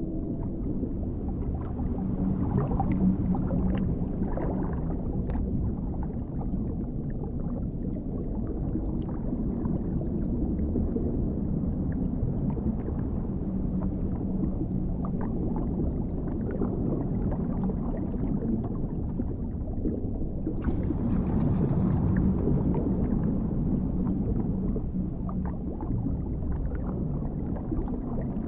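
Dark underwater ambience: a deep, muffled rumble with faint drawn-out low tones and scattered small clicks. About 20 seconds in, a brighter hiss joins it.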